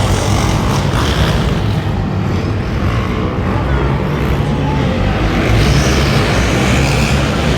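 Monster truck engine running loud and steady in an arena.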